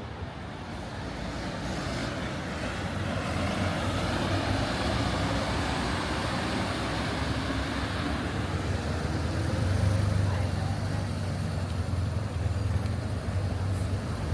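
Street traffic: a car's engine and tyres growing louder over the first few seconds, with a strong low engine hum from about ten seconds in.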